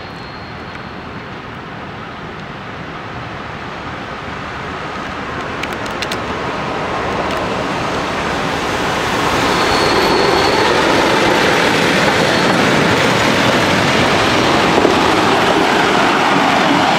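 A locomotive-hauled passenger train approaches, its rumble and wheel clatter growing steadily louder over about nine seconds. The carriages then pass close by with a steady, loud clatter. A brief high squeal comes about ten seconds in.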